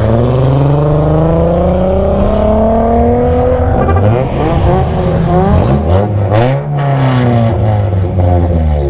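Kawasaki ZX-10R sportbike's inline-four engine accelerating hard. Its pitch climbs for about three and a half seconds, then drops and climbs again in quick steps as it shifts up through the gears, and runs at a steadier note near the end.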